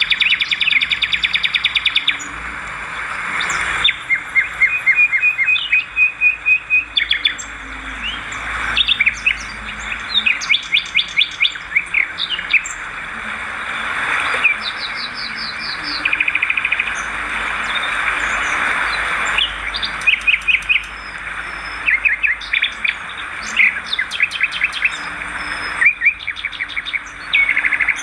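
Swiftlets calling: rapid trains of short, high chirps and twitters, one call series following another without pause.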